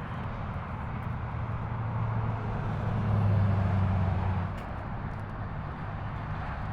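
A road vehicle driving past, its low engine hum swelling to its loudest about three seconds in and then fading, over steady traffic noise.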